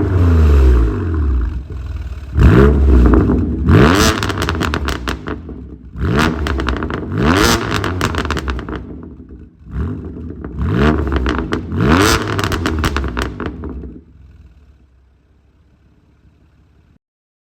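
BMW F82 M4's twin-turbo inline-six revved hard about four times through a custom valved exhaust, with popping and crackling as the revs fall after each blip. The sound dies away to a low murmur near the end, then stops.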